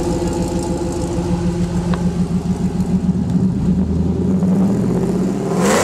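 Car engine idling through its exhaust, a steady low pulsing note, with a short loud burst of noise near the end.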